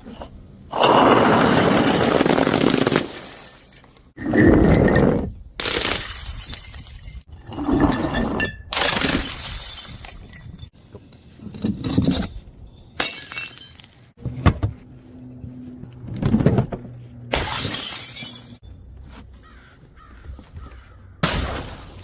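Glass bottles smashing one after another, about ten separate crashes, some long and some short.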